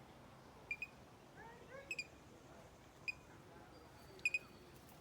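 A bird giving short, sharp, high chirps, singly or in quick pairs, about one every second.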